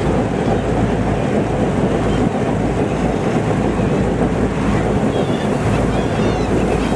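Heavy wind buffeting the microphone over a steady low rumble, with faint high bird calls breaking through a few times.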